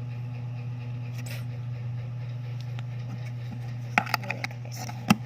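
Steady low hum, with a quick run of small sharp clicks and taps about four seconds in and one louder click near the end.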